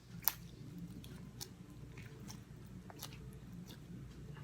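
Sticky slime being worked off a spoon: faint wet clicks and squelches, with one sharper click near the start.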